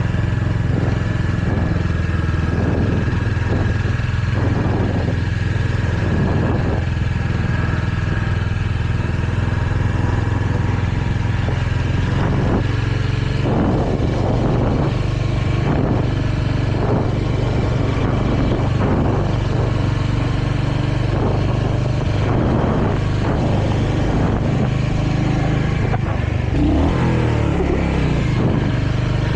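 Royal Enfield Hunter 350's single-cylinder engine running steadily on the move, with wind and road noise; the engine pitch shifts briefly near the end.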